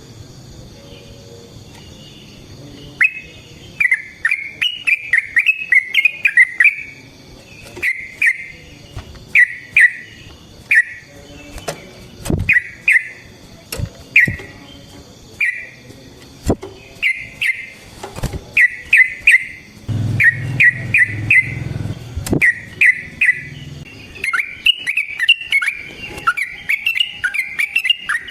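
Yellow-vented bulbul (trucukan) singing: about three seconds in it starts repeated bursts of short, quick chattering notes, with sharp clicks scattered between the phrases.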